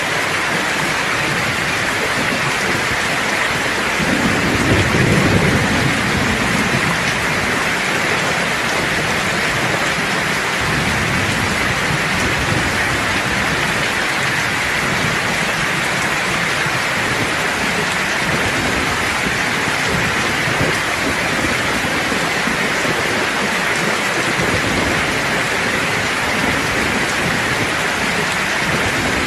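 Steady heavy rain falling, with a low roll of thunder rumbling about four seconds in and fading over a few seconds, and fainter rumbles later.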